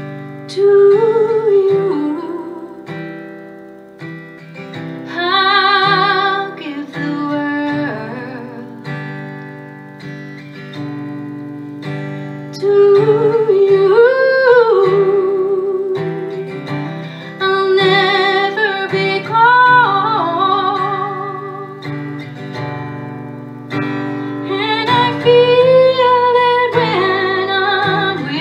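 A woman sings a slow song live, in long phrases with vibrato, accompanied by acoustic guitar chords.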